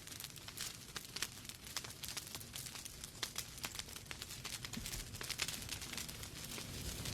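Fire burning in a fireplace, crackling: many irregular sharp snaps and pops over a soft steady hiss.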